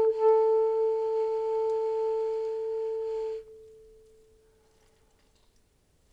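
Saxophone holding one long, soft, steady note that stops abruptly about three and a half seconds in, leaving a faint fading ring.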